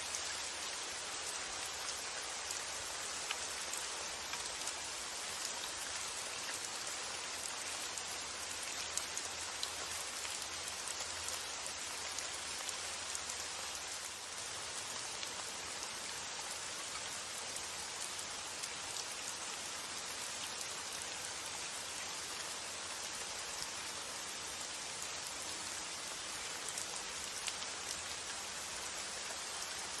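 Steady rain falling, an even hiss with scattered sharper drop ticks and no change in strength.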